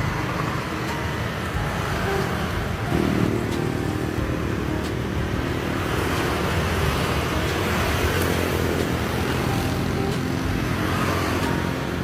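Street traffic: a steady rumble of passing cars and motorcycles, with one vehicle's engine coming in louder about three seconds in.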